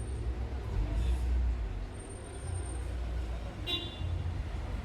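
Steady low rumble of a vehicle on the road, with a short high-pitched toot about three and a half seconds in.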